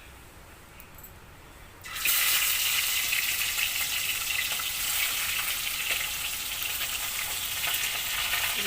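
Fish pieces coated in turmeric and salt going into hot oil in a kadai about two seconds in, setting off a sudden loud sizzling and spattering that keeps on steadily.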